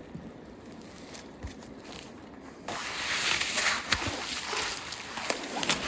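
Leaves and branches of dense undergrowth rustling and crackling as a person pushes through them on foot, much louder from about three seconds in.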